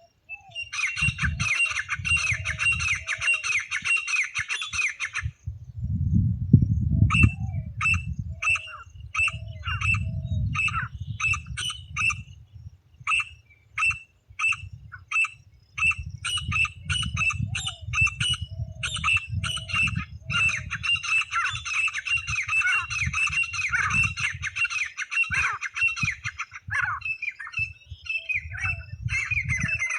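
Francolin (titar) calling: harsh, fast-stuttering trains of notes alternating with runs of separate strokes about two a second, over a low rumble.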